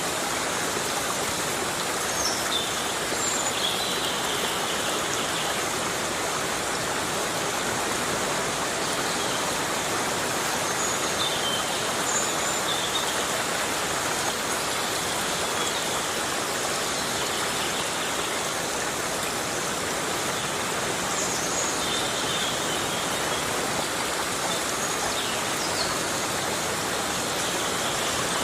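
Heavy rain falling steadily on rainforest foliage, an even, unbroken hiss. A few faint, brief high chirps come and go now and then.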